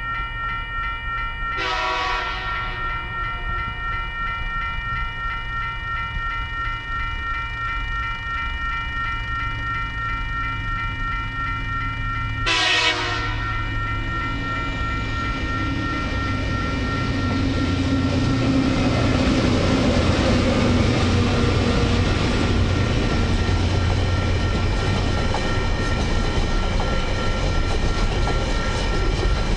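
Diesel locomotive horn sounded twice, about two seconds in and again about halfway, for the Relbia Road level crossing. Then the TasRail TR-class locomotives' engine rumble and the wheel noise grow louder as the train comes through.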